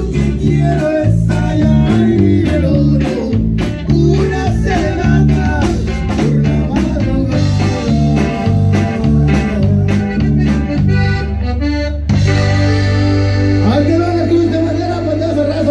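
Live norteño band music: accordion and plucked guitar over a bouncing bass line with a steady beat. About twelve seconds in the rhythm stops and the band holds a long final chord.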